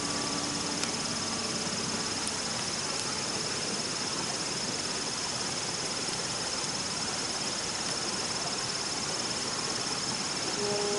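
Crickets trilling steadily at a high pitch over an even outdoor hiss, with a couple of faint clicks.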